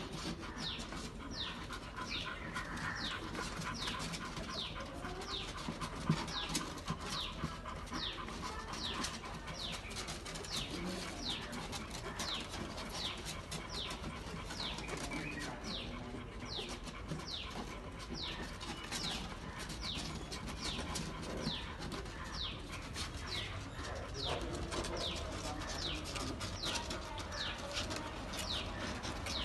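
A bird chirping: short, high, falling chirps repeated steadily, about one to two a second, over a faint steady hiss.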